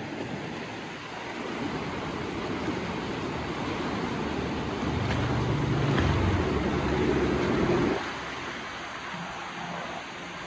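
Swollen river rushing over a wall's edge: a steady sound of fast-flowing water, with a louder low rumble joining about halfway through and cutting off suddenly a few seconds later.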